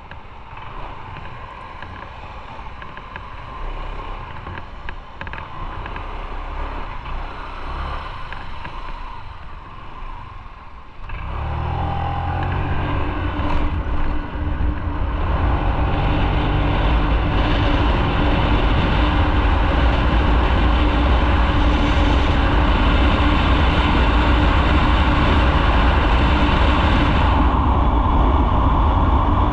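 Motorcycle ridden on the road, engine and wind noise heard from the bike. About eleven seconds in the sound jumps much louder and keeps building for several seconds, as when pulling away and speeding up, then holds steady at a loud cruise.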